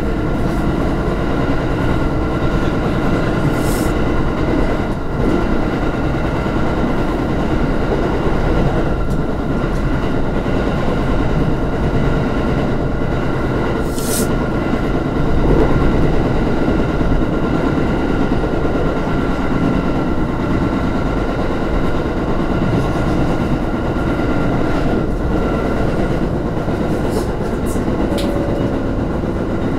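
Electric train running at speed on the line, heard from inside its rear cab: a steady rumble of wheels on rail with a steady whine over it. Two brief sharp clicks stand out, about four and fourteen seconds in.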